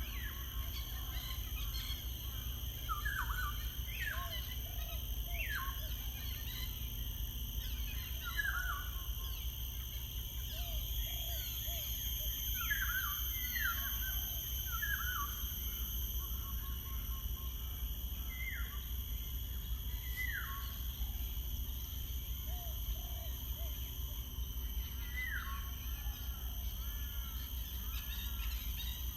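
Wild birds calling: short notes that slide sharply downward, repeated every second or two, with softer low chirps in between, over a steady high-pitched whine and a low rumble.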